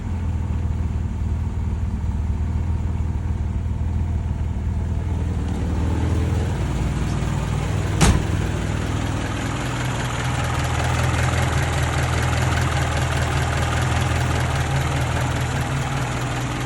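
Engine idling steadily, with one sharp crack about eight seconds in; from about ten seconds on, its note sits a little higher and sounds rougher.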